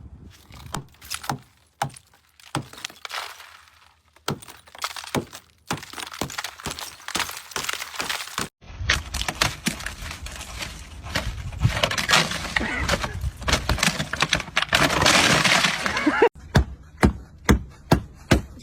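Ice on a frozen car being broken: many sharp cracks and crunches, with denser crunching in the middle stretch.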